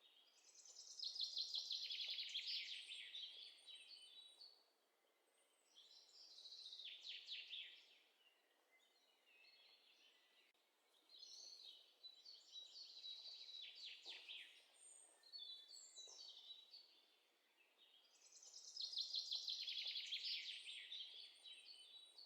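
Faint songbird singing in the background. It sings four phrases of rapid trilling notes, each a few seconds long, with pauses between them.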